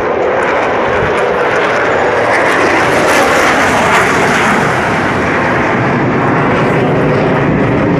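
Airplane flying over loudly, a steady engine roar that is loudest about three to four seconds in.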